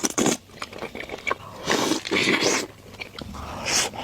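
Close-miked eating sounds: bites and chewing, with a few short hissing bursts and clicks.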